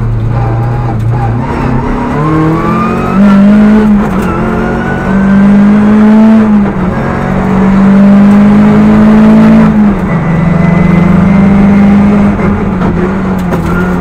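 Rally car engine heard from inside the cabin under hard acceleration, its revs climbing and dropping back at each gear change, several upshifts in a row.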